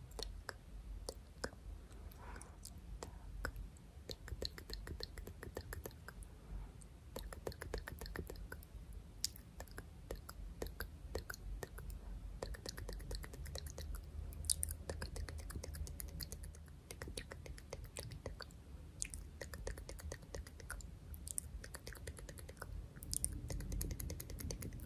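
Close-miked ASMR hand sounds: fingers and palms rubbing, tapping and flicking, giving a dense, irregular stream of small crisp clicks and crackles.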